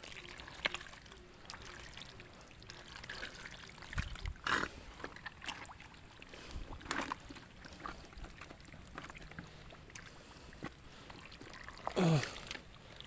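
Faint trickling and splashing of shallow water, with a few louder splashes about four and a half and seven seconds in.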